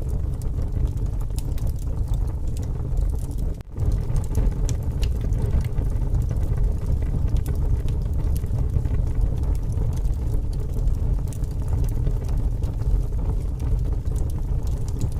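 Wood fire crackling with sharp pops over a heavy, steady rumble of gusting wind. The sound drops out for a moment about four seconds in.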